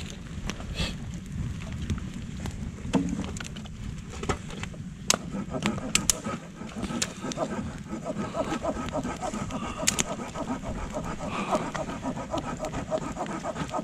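Campfire burning, the wood crackling with scattered sharp pops and a few loud snaps.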